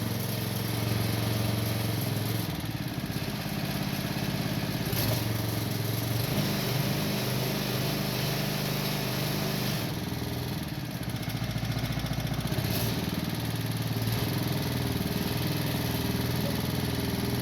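Honda GX80 single-cylinder four-stroke petrol engine running steadily and driving a sugarcane juicer's rollers, its note shifting slightly a few times.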